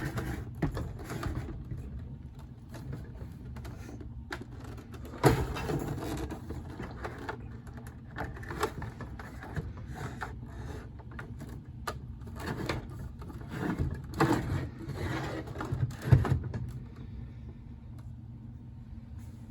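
Vintage 16-inch table fans being turned around by hand on a tabletop: irregular scraping, knocks and clunks of their bases and housings, with two sharper bangs about five seconds in and near the end.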